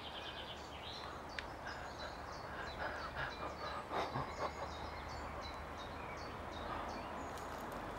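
Birds chirping, many short high calls over a steady low hum, with a couple of brief clicks.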